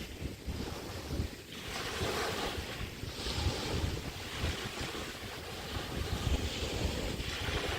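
Small bay waves washing onto a beach in repeated hissing surges, with wind rumbling on the microphone underneath.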